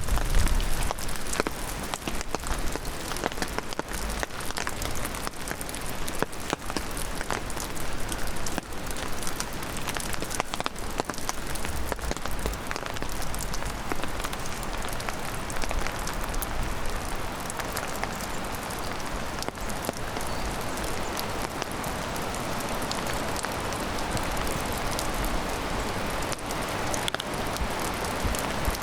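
Heavy rain falling steadily, with many separate drops ticking close by over the hiss of the downpour.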